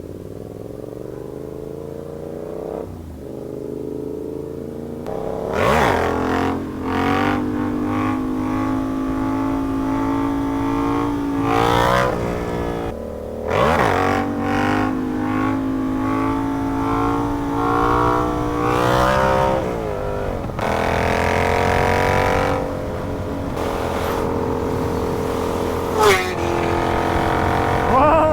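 Yamaha R7's 689 cc parallel-twin engine pulling hard, rising in pitch and dropping sharply at each quickshifter upshift, several times over, over steady wind rush.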